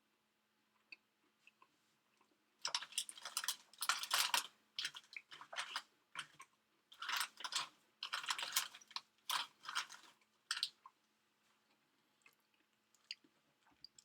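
A person chewing food close to the microphone in noisy bouts, starting about three seconds in and stopping a few seconds before the end, over a faint steady hum.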